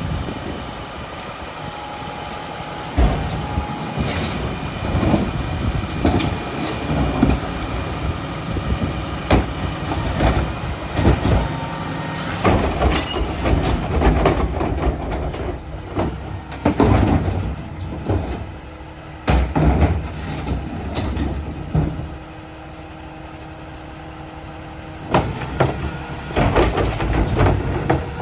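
Mack rear-loader garbage truck at work: engine running with many sharp clanks and bangs, and a steadier hum for a few seconds about three-quarters of the way through.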